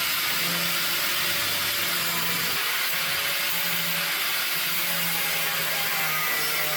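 Power tool cutting rusty sheet steel out of a car's front chassis rail, giving a loud, steady, hissy cutting noise.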